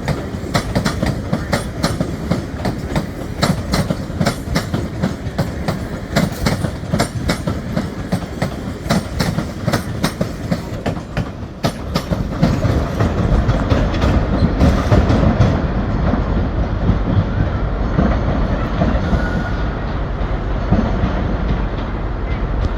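Train wheels clicking over rail joints and pointwork as a passenger train moves through the station, many sharp clicks in quick succession. About halfway through the clicking fades and a louder, steady low rumble takes over.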